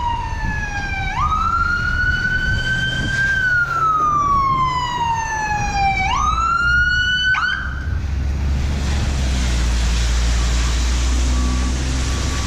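Emergency vehicle siren wailing in slow falling and rising sweeps, stopping about eight seconds in. A steady hiss with a low rumble follows.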